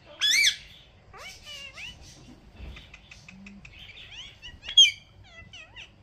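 Pet parrot calling. A loud screech comes near the start and another just before five seconds in, with short gliding chirps, whistles and a few clicks between.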